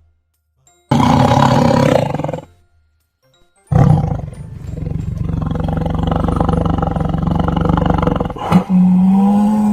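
A big cat roaring: a short roar about a second in, then a longer one after a pause of about a second. Near the end a different steady, low pitched animal call begins.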